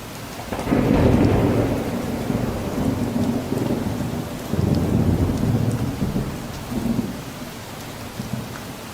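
Steady rain with rolling thunder. A low rumble swells about a second in, rises again near the middle and once more briefly, then dies away near the end.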